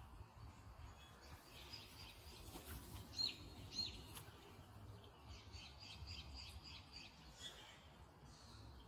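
Small birds chirping faintly over a low background rumble: two sharper falling chirps a little after three seconds in, then a quick run of high notes between about five and seven seconds.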